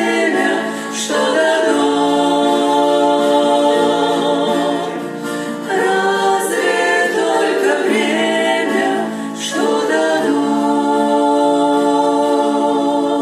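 A church worship choir singing a Christian song in harmony, with long held chords in phrases of about four seconds and short breaths between them.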